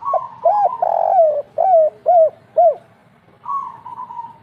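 Spotted dove (tekukur) cooing its 'kuk 3' song: a quick run of short, arched coos, then a longer, steadier coo about three and a half seconds in.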